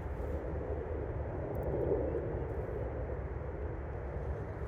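Steady distant engine rumble, swelling slightly about two seconds in and then easing.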